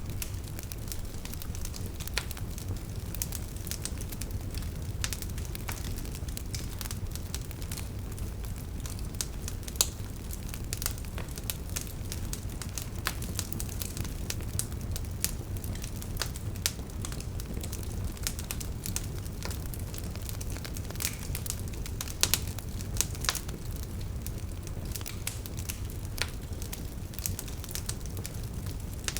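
Campfire crackling: a steady low rumble of burning with frequent sharp pops and snaps scattered irregularly throughout.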